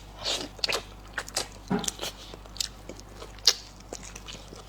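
Close-miked mouth sounds of a person biting and chewing tendon-rich meat: irregular wet smacks and sharp clicks, the loudest about three and a half seconds in.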